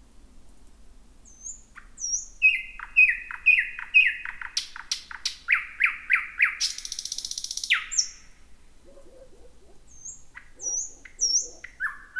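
Thrush nightingale singing: a phrase of thin high whistles and a fast run of repeated downward-sliding notes, about five a second, ending in a dry rattle. After a short pause, high whistles open the next phrase near the end.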